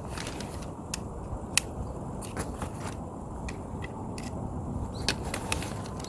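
Steady low noise with irregular sharp clicks and ticks scattered through it, the loudest about a second and a half in.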